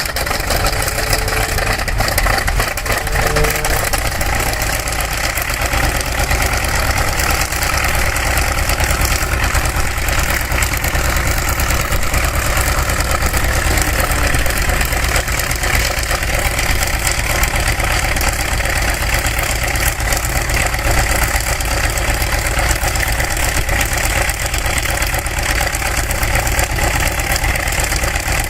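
Piston aircraft engine running steadily without letting up.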